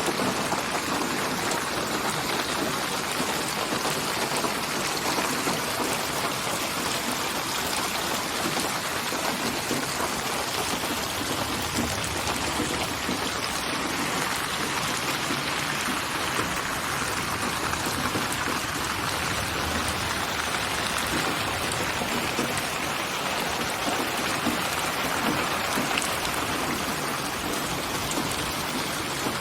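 Steady rain: an even hiss of many drops falling, with no let-up or change.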